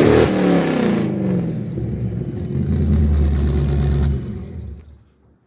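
Square-body Chevy step-side pickup's engine revving hard as it climbs, then the revs fall away and it settles lower before fading out near the end.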